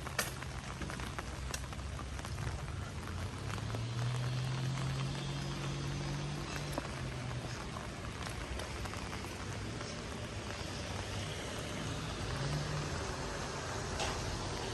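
Steady rain falling on a street, with scattered ticks of drops. A low engine hum swells about four seconds in and fades by about seven seconds.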